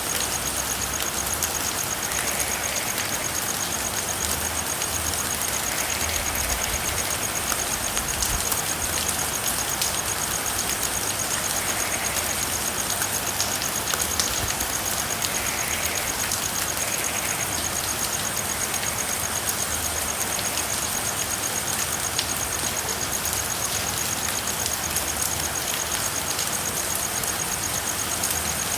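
Steady rain falling, an even hiss of drops. A continuous high-pitched trill runs throughout, and faint short frog calls come now and then.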